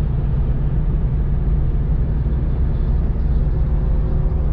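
Car being driven, heard from inside the cabin: a steady, loud low rumble of engine and road noise.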